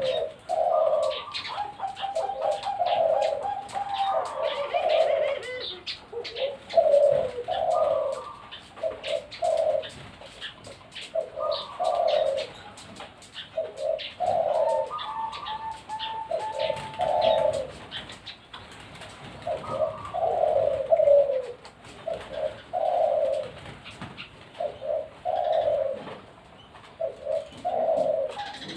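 Perkutut (zebra doves) cooing: phrase after phrase of short, low coo notes, now and then with a higher, longer note, more than one bird calling over the others.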